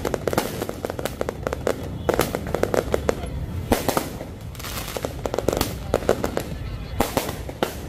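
Handheld roman candle fireworks firing: an irregular run of sharp pops and cracks, with a few much louder bangs spread through.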